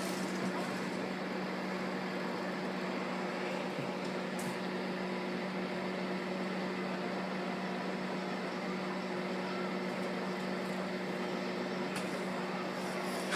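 Microwave oven running: a steady electrical hum under the even whir of its fan.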